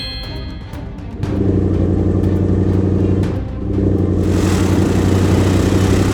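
Heavy vehicle engine sound effect running steadily in two long stretches, with a brief dip about three and a half seconds in.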